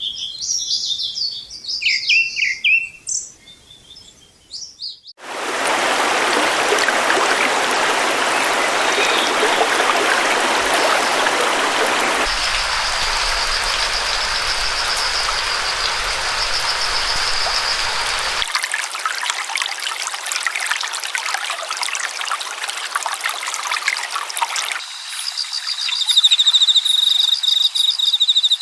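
Small birds chirping and calling, then about five seconds in an abrupt switch to the steady rush of a flowing stream. The water sound changes suddenly several times, and a high continuous trill runs over it in the middle and again near the end.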